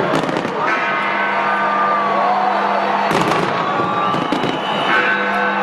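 Fireworks display: aerial shells banging and crackling at intervals, with a burst of several bangs about three seconds in, over sustained music and crowd noise.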